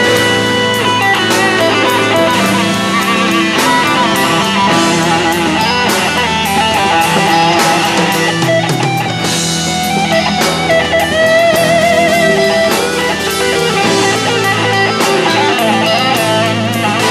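Rock band instrumental passage led by electric guitar playing long held, bending notes with vibrato over bass and drums.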